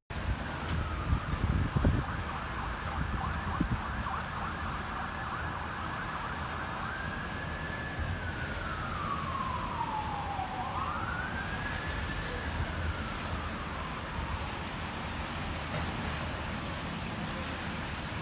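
Emergency vehicle siren wailing: one high note held for several seconds, then sliding slowly down, back up and down again. Wind rumbles on the microphone underneath, with a few knocks a second or two in.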